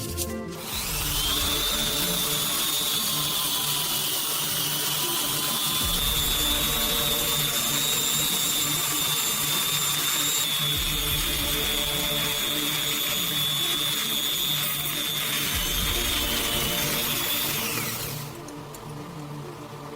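Electric power tool motor running steadily for about 17 seconds with a high whine, spinning up just under a second in and winding down about 18 seconds in. Background music plays underneath.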